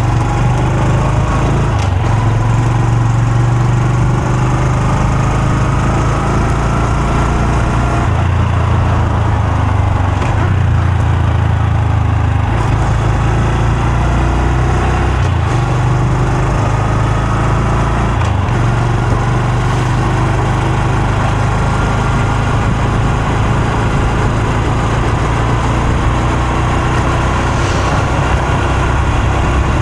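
Honda Super Cub C125's single-cylinder four-stroke engine running steadily while riding. The exhaust note steps up and down in pitch several times.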